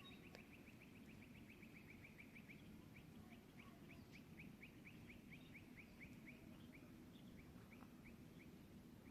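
A small animal chirping: a long, regular series of short, high chirps, quick at first and slowing toward the end, faint over a low steady rumble.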